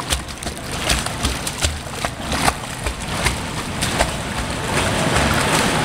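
Water splashing and sloshing in irregular strokes as a dog paddles, over a steady low rumble.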